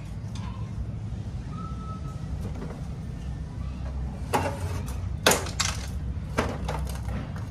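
Several sharp clicks and knocks, clustered in the second half, of photocopier parts being handled during disassembly, over a steady low hum.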